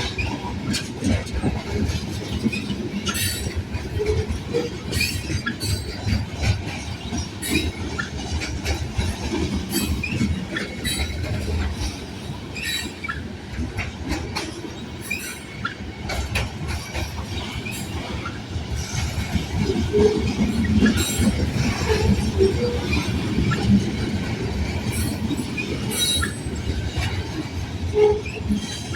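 Freight train rolling past: a steady rumble of wheels on rail, with repeated clicks and clanks and short wheel squeals throughout.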